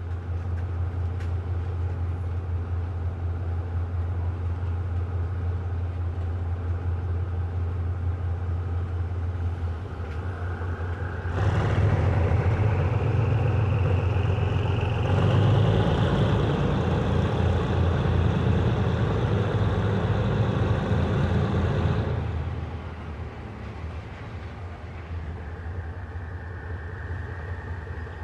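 Diesel train engine running steadily at a low hum, then working much harder from about eleven seconds in, with a rising whine, for roughly ten seconds before easing back to a quieter run.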